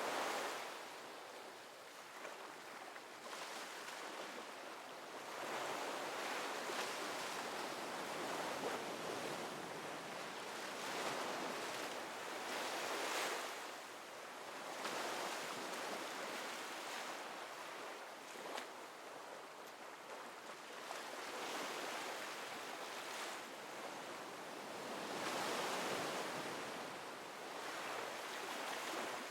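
Ocean surf: waves breaking and washing in, a steady rushing hiss that swells and fades every several seconds.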